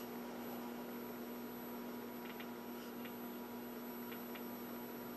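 Steady electrical mains hum, with a few faint ticks in its middle part.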